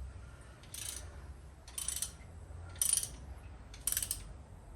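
Socket ratchet wrench clicking in four short bursts about a second apart as a bolt that has broken loose is wound out.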